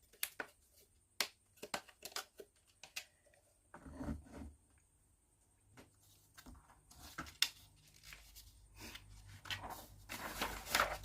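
Plywood kit parts clicking and knocking as a wall piece is handled and pressed onto its joints, with a duller knock about four seconds in and a rubbing scrape of wood near the end.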